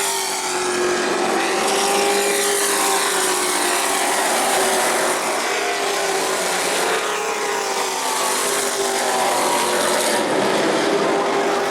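Racing trucks' engines running at speed on an asphalt short track, their pitch rising and falling through the laps.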